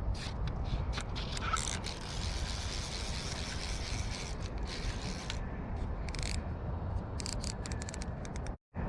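Fly reel's click-and-pawl drag ratcheting in quick runs of clicks as line goes on or off the spool, over a steady low rumble of wind and river.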